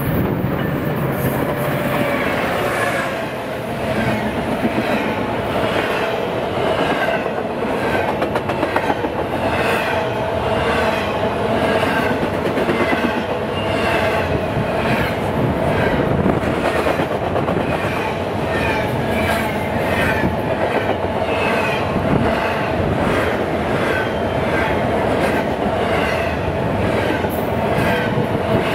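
A train passing close by, its wheels clicking over the rail joints in an even rhythm of about one beat a second, over a steady rumble.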